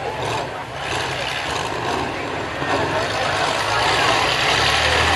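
Demolition derby trucks' engines running as they drive around the arena, getting louder near the end, with crowd voices faintly underneath.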